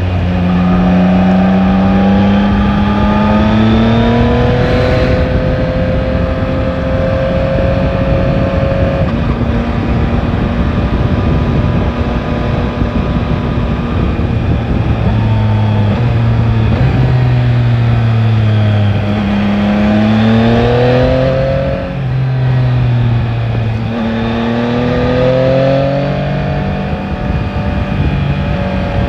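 Yamaha Tracer 9 GT's inline three-cylinder engine pulling under acceleration, rising in pitch several times with drops in between as the rider shifts or rolls off, over a steady rush of wind noise.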